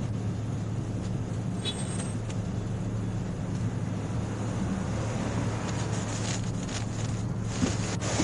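Steady low hum of an idling vehicle, with a short high beep about two seconds in and a few light clicks near the end.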